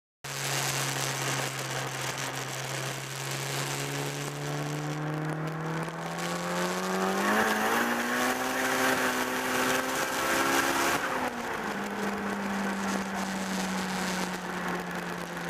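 Turbocharged Honda B18B four-cylinder in a Civic pulling at full throttle on 29–30 psi of boost, heard from inside the cabin. The engine note climbs steadily, rises faster and louder about seven seconds in to around 7,000 rpm, then drops sharply about eleven seconds in and runs on at lower, steady revs.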